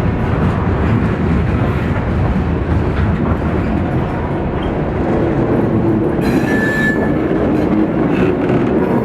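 Freight train rolling past, its wheels rumbling and clicking over the rails, with a brief high wheel squeal a little past halfway.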